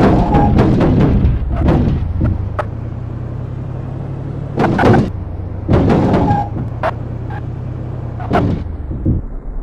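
A car engine rumbling low and steady at slow speed, broken by several short clusters of loud, sharp cracks and bangs a second or more apart.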